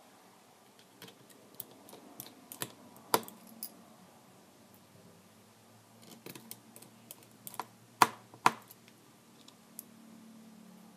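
Irregular light clicks and taps of small tools and plastic tablet parts being handled, with a sharper click about three seconds in and two more close together about eight seconds in.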